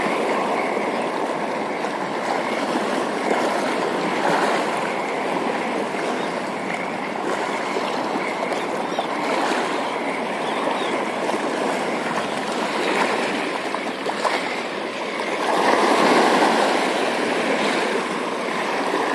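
Steady rushing wash of water, waves lapping and surging, with a slight swell about three-quarters of the way through.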